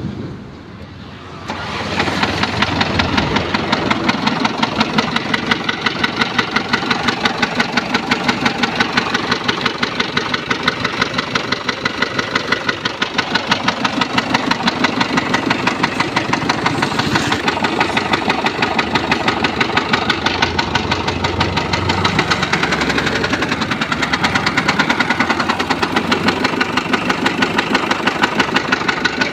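Chevrolet Tavera engine, just overhauled, starting about a second and a half in and then idling steadily with an even, rapid pulsing beat.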